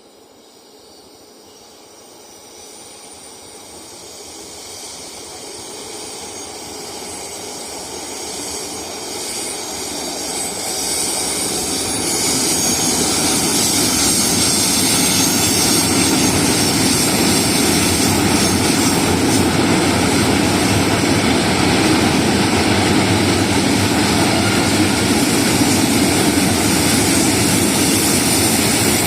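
A train approaching, its rushing noise growing steadily louder for about twelve seconds. It then passes close with a loud, steady rush of wheels and running gear.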